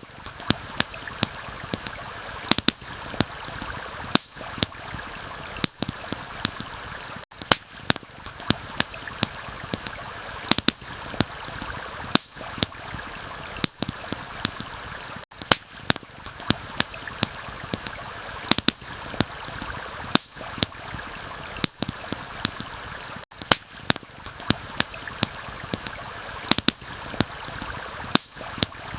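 Campfire crackling, with sharp irregular pops several times a second, over the steady rush of a flowing stream.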